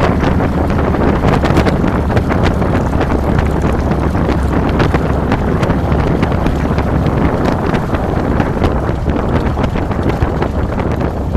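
Wind buffeting a handlebar-mounted camera's microphone at riding speed, over the steady low rumble of a 2007 Harley-Davidson Fat Boy's V-twin engine.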